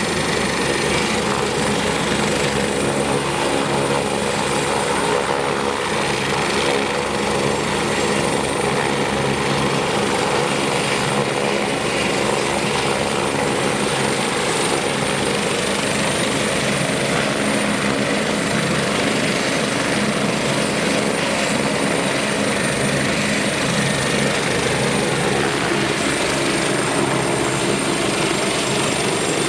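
BK 117 C1 helicopter's twin turbine engines and rotor running steadily, a fast rotor beat under a constant high turbine whine.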